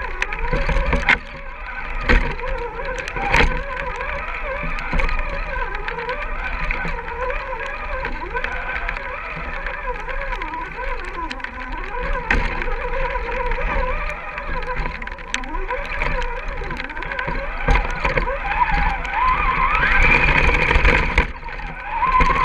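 Electric motor and gearbox of an RC scale rock crawler whining, pitch rising and falling with the throttle, with a few sharp knocks in the first few seconds. About nineteen seconds in, the whine climbs steeply as the motor is given more throttle.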